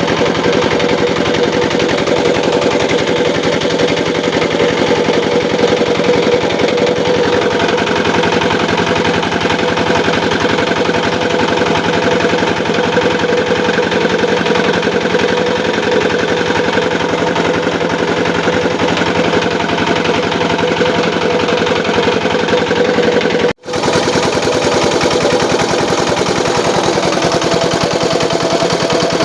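Small engine driving a homemade gambier-leaf grinding and pressing machine, running steadily at a fast, even beat. The sound breaks off for an instant about 23 seconds in, then carries on.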